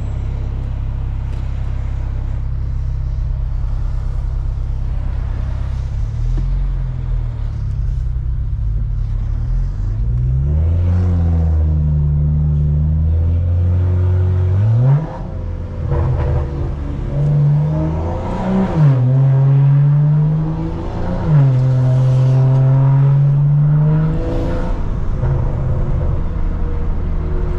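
BMW 335i's N55 turbocharged straight-six through a straight-piped exhaust, cruising steadily at first and then accelerating. The engine note rises through the gears several times and drops back sharply at each upshift.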